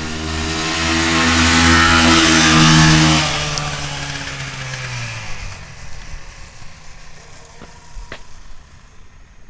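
Dirt bike passing at speed: its engine grows louder to a peak about three seconds in, then drops in pitch as it goes by and fades away over the next few seconds.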